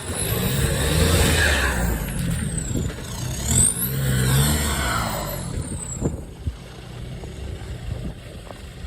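Off-road vehicle engine revving hard as it climbs through a rough, rutted section. The revs rise and fall twice and die down after about six seconds, leaving a quieter running engine and a few knocks.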